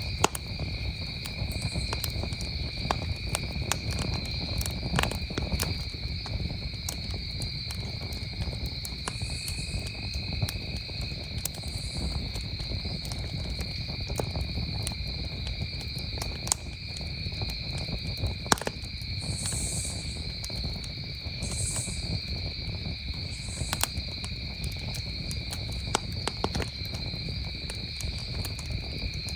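Wood campfire crackling, with scattered sharp pops and snaps over a low steady rumble. Behind it, crickets trill in a steady, unbroken chorus at two high pitches.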